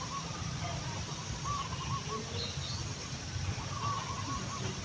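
Birds calling in a rural ambience, with short wavering call phrases heard three times and a few higher chirps, over a steady low rumble.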